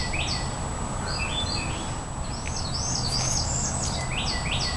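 Songbirds calling in the trees: short down-slurred chirps in quick groups, with a faster run of higher twittering notes about three seconds in, over a steady low background rumble.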